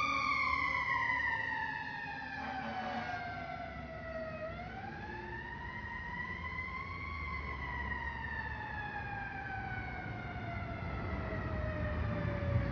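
Fire truck siren in a slow wail: the pitch slides down, rises once about four seconds in, then falls away slowly for the rest, over a low rumble of road and engine noise.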